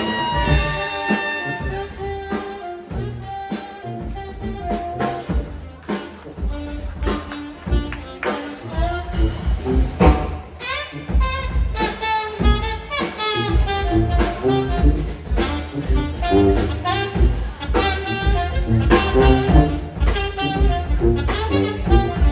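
Live brass band playing upbeat jazz: horns over a pulsing bass line and drums, with a loud drum hit about ten seconds in.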